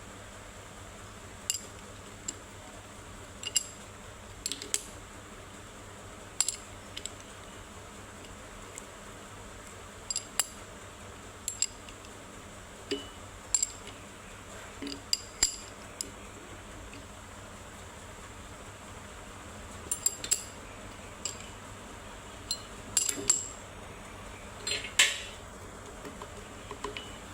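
Crankshaft and connecting rod knocking against each other as sharp metallic clinks and knocks at irregular intervals, some single and some in quick pairs or clusters. There is no steady running rhythm.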